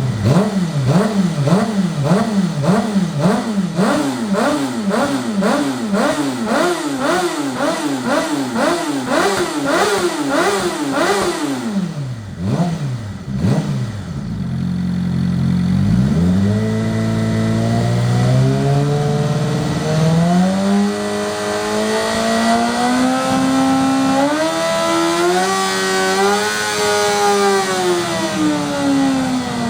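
2011 Suzuki GSX-R600's inline-four engine, through a Yoshimura TRC carbon-fibre slip-on exhaust, revved already warm: quick throttle blips about twice a second for roughly twelve seconds, two slower blips, then a long rev that climbs in steps for about ten seconds before falling back near the end.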